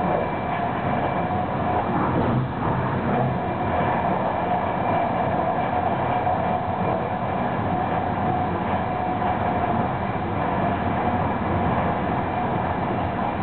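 Steady running noise of an ÖBB Eurocity train at about 200 km/h, heard from inside: an even rumble and rush of wheels on welded rail, with a steady whine held throughout.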